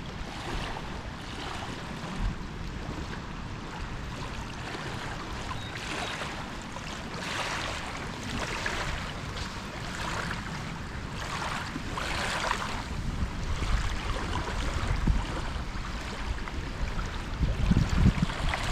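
Wind outdoors: a steady rush with irregular swells of rustling hiss through the middle, and low wind buffeting on the microphone that grows louder near the end.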